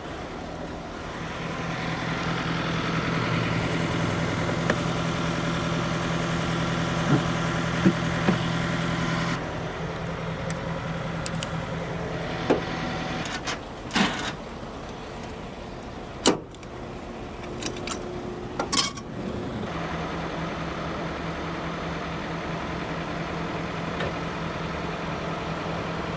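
Heavy truck's diesel engine idling. It runs louder for several seconds near the start, then drops back. The steady engine note fades for a while, during which several sharp knocks sound, then returns.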